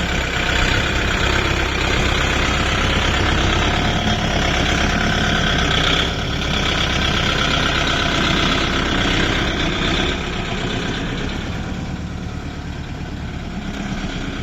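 Kubota MU 5502 tractor's diesel engine running steadily, dropping a little in loudness about ten seconds in.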